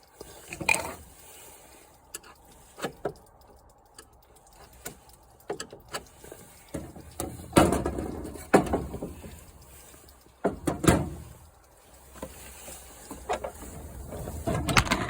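Handling noise: a string of irregular knocks, bumps and rustling as things are moved about, loudest about halfway through, with another cluster near the end.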